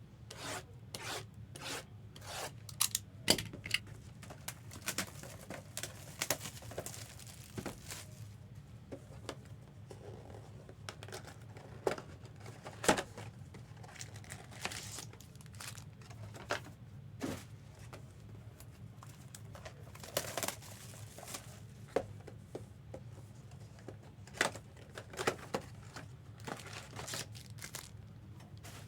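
Trading card pack wrappers and box packaging being torn open and crinkled in many short, irregular bursts, with the sharpest tears about 3 and 13 seconds in.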